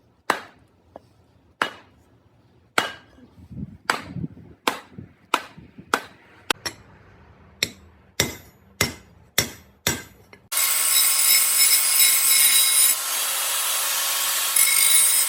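About thirteen sharp hammer blows on metal, each with a short ring, struck every half second to a second, as when driving a steel wood-splitting wedge made from scaffolding pipe. Then a loud, steady, harsh noise takes over for about five seconds and cuts off suddenly.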